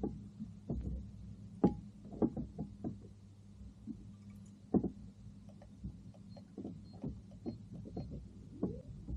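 Irregular knocks and clunks on a plastic fishing kayak, a few a second and uneven in strength, over a low steady hum.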